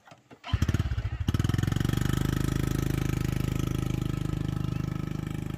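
A small engine starts about half a second in and runs steadily with a rapid, even firing beat, slowly getting quieter near the end.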